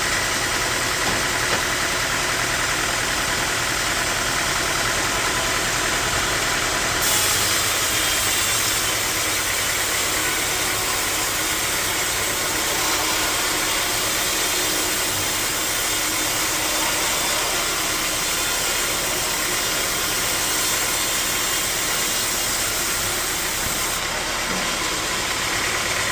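Sawmill machinery running steadily: a continuous engine-like drone with a hiss over it. The high hiss grows stronger about seven seconds in and eases again near the end.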